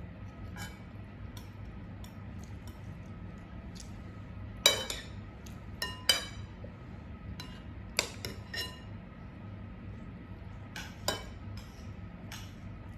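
Metal cutlery clinking against dishes and glassware during a meal: a handful of sharp clinks, some ringing briefly, the loudest about five seconds in.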